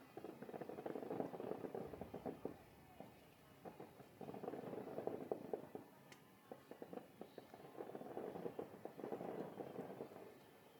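Aerial fireworks crackling in three dense waves of rapid pops, each a couple of seconds long.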